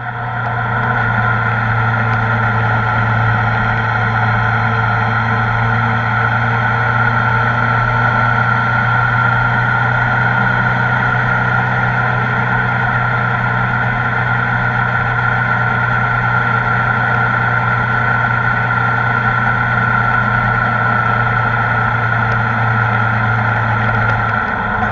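Kawasaki ZR-7S motorcycle's air-cooled inline-four engine running at a steady cruise, its pitch holding level, then dropping a little near the end.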